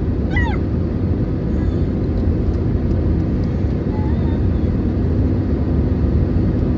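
Steady low cabin rumble inside an Airbus A320neo (A320-251N), with a brief voice about half a second in.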